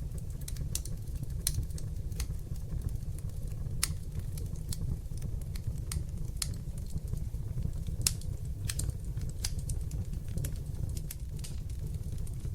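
Wood fire in a fireplace crackling, with sharp irregular pops and snaps over a steady low rumble of flames; two louder pops about four and eight seconds in.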